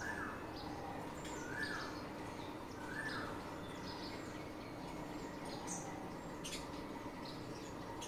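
Birds calling: a short swooping note repeated three times, about a second and a half apart, in the first few seconds, with scattered short high chirps throughout.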